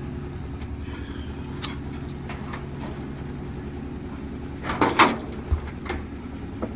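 Scattered clicks and knocks from hands working on a dryer's panels and wiring over a steady low hum, with a louder clatter about five seconds in.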